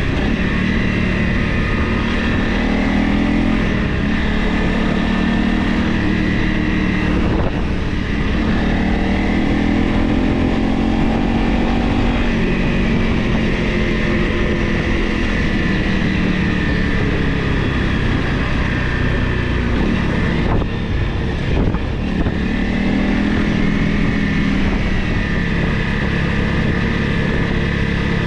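Honda CRF Rally's single-cylinder engine running while the bike is ridden, its pitch rising and falling with the throttle over a low rumble. The revs drop briefly about seven seconds in and again around twenty to twenty-two seconds in.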